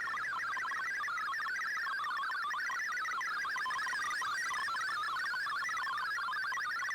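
MFSK digital-mode data signal from a shortwave radio broadcast: a continuous warbling stream of rapidly hopping tones at an even level.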